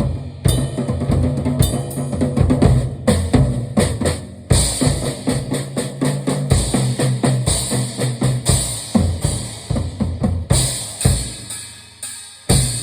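Drum kit played fast, with bass drum, snare and a steady wash of cymbals. The playing ends on one last hit near the end that rings out.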